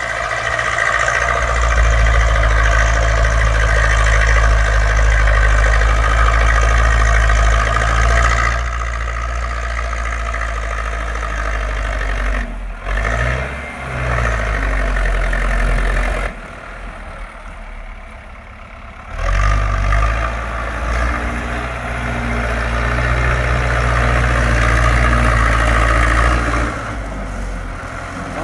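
Zetor 6245 tractor's diesel engine running steadily under load while ploughing. The sound drops off for a few seconds past the middle, then picks up again.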